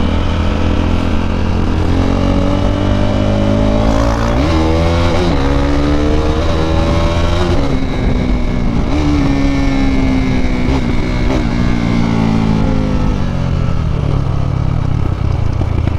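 KTM RC 390's single-cylinder engine through an Akrapovič exhaust, accelerating hard: the revs climb, drop sharply with two upshifts, climb again, then fall slowly as the throttle is eased off.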